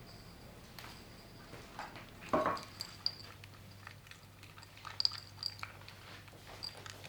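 Quiet eating sounds: light clicks and taps with one louder knock about two and a half seconds in, over a faint steady low hum.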